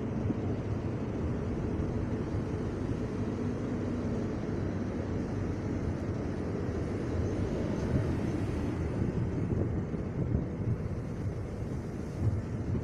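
CP Class 3500 double-deck electric multiple unit running along the platform past the listener: a steady rumble of wheels on rail and running gear.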